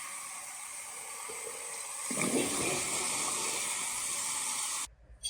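Steady rush of running water, louder from about two seconds in, cut off suddenly near the end, followed by a single click.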